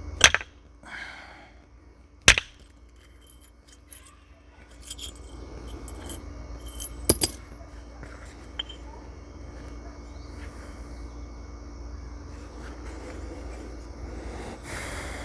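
Flint being knapped with a natural percussor: three sharp strikes on the stone, the second about two seconds after the first and the third about five seconds later, with lighter taps and clicks in between. A faint steady hum runs underneath.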